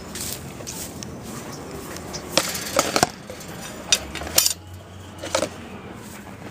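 A few sharp clinks and knocks of a dish or food container being handled, with a cluster of them about two and a half seconds in and single ones near four and five and a half seconds.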